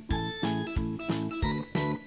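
Background music: upbeat strummed acoustic guitar with a bouncing bass and a steady beat.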